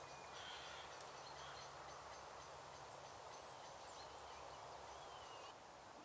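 Faint, scattered bird calls: short chirps and a couple of brief sliding notes over a steady outdoor hiss and a low hum. The background drops suddenly near the end.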